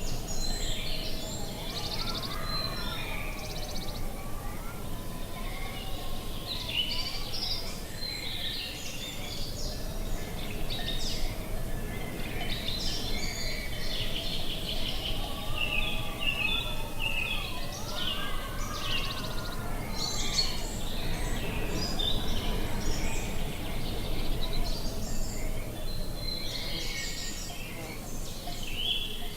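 Several birds chirping and calling without pause over a steady low background noise. A fainter pair of tones slowly rises and falls beneath the birdsong.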